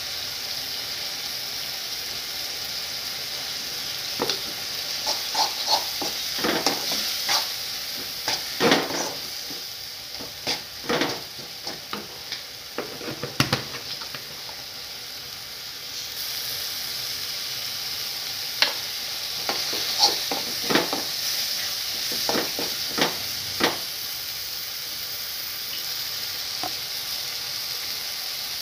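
Prawn gravy sizzling steadily in a kadai, with a steel ladle scraping and clinking against the pan in two spells of irregular stirring.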